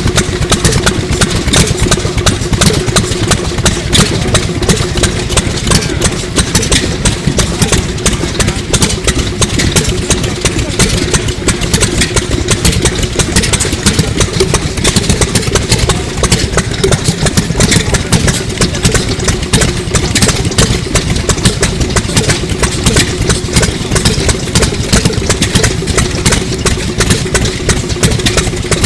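Circa-1933 Sato 2 hp hot-bulb semi-diesel engine running steadily, with a rapid, even knocking and a steady hum underneath.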